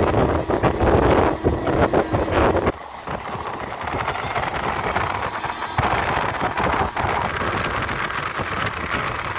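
Passenger train running, with heavy wind buffeting the microphone. The buffeting drops off sharply a little under three seconds in, leaving a quieter, steadier running noise.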